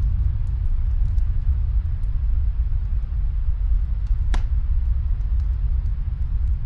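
Steady low rumble of snowstorm wind, with faint fireplace crackles and one sharper pop about four seconds in.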